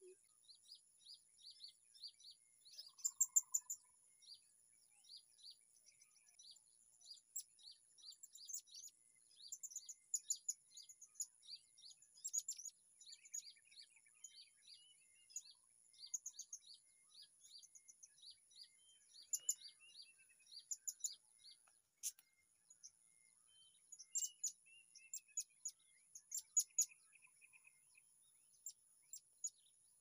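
Small birds chirping in a long run of short, high notes, about two or three a second, with a few louder clusters of rapid chirps.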